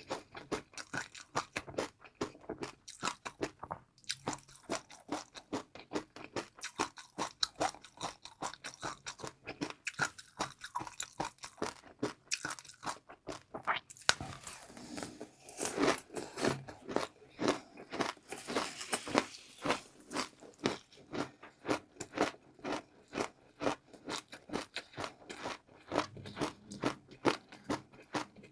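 Close-up eating sounds: rapid, crisp crunching and chewing of crunchy food, many sharp crackles in quick succession, thicker for a few seconds around the middle.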